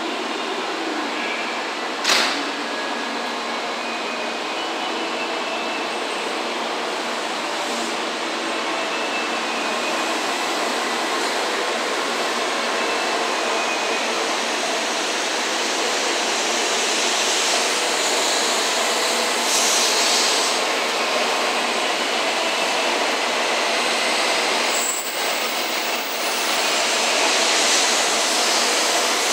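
N700-series Shinkansen train pulling out of the station, its cars running past with a steady rushing rail noise that slowly grows louder as it gathers speed. A single sharp click comes about two seconds in.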